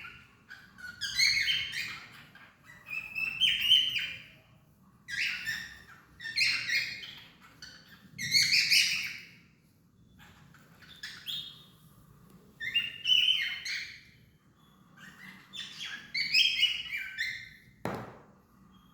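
Cockatiel singing: repeated bouts of chirping, warbling whistles, each a second or two long with short pauses between. A single sharp click comes near the end.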